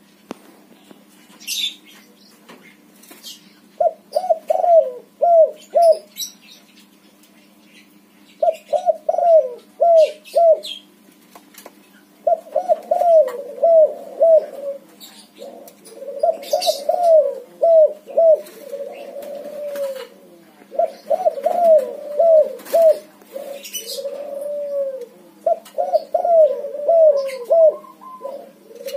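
White-morph spotted dove (tekukur) cooing over and over in short repeated phrases, starting about four seconds in and coming in groups with brief pauses. Short high chirps come in here and there, and a faint steady hum lies underneath.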